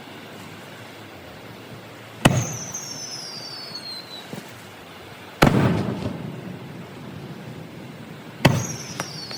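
Aerial fireworks shells bursting, three sharp booms about three seconds apart, the first and last each followed by a high falling whistle.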